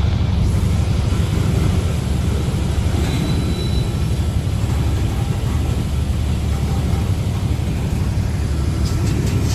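Steady low rumble of a diesel freight train running, even in level throughout.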